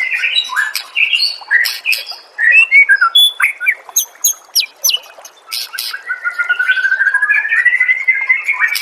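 White-rumped shama (murai batu) singing: a rapid, varied run of whistled phrases and sharp high chips, then a fast trill that rises steadily in pitch over the last three seconds.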